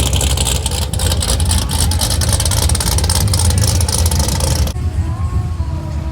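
A car engine running loudly, with a deep exhaust rumble under a loud hiss. About three-quarters of the way in, the sound cuts off suddenly to a quieter engine rumble with voices.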